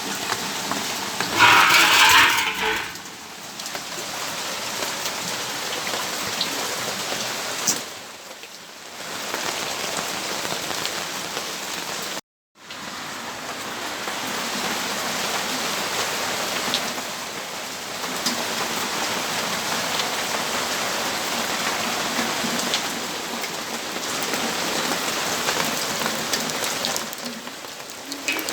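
Steady rainfall, an even hiss of drops on surfaces, with a brief louder rush about two seconds in. The sound drops out to silence for a moment about halfway through.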